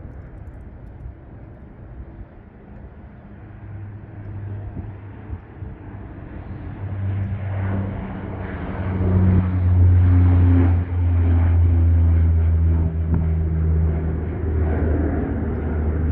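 Embraer EMB-120ER Brasilia twin turboprop taking off, its propellers and engines making a steady low drone over a rushing noise. It grows louder until about ten seconds in, then eases slightly.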